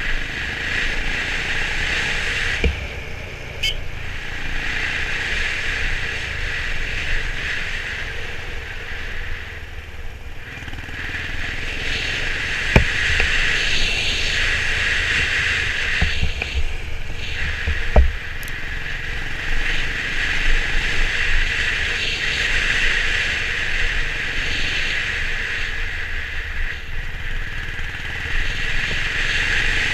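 Honda CB350 RS single-cylinder motorcycle being ridden, its engine running under a steady rush of wind and road noise that swells and eases. Two sharp knocks come a few seconds apart near the middle.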